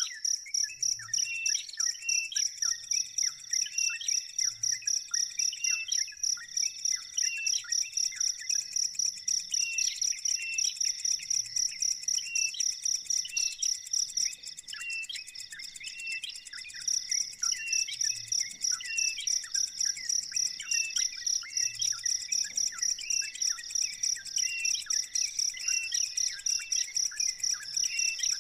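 An insect trilling steadily in a fast, even pulse, most likely a cricket, with a small bird giving short, repeated, falling chirps over it. The trill weakens for a couple of seconds around the middle and then returns.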